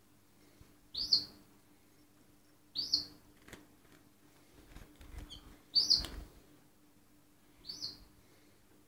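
Canary giving short single chirp calls, four in all, one every two seconds or so, with faint rustling between them near the middle.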